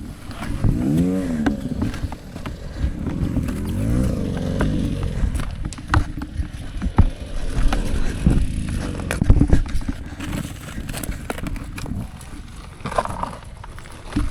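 Dirt bike engine revving, its pitch rising and falling in sweeps about a second in and again around four seconds, with scattered sharp knocks later on.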